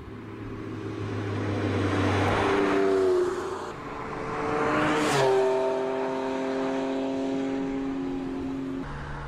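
Porsche 911 Sport Classic's 3.8-litre flat-six engine revving as the car drives past, loudest about five seconds in with a rush of tyre and wind noise and a falling pitch as it goes by, then a steady engine note as it pulls away.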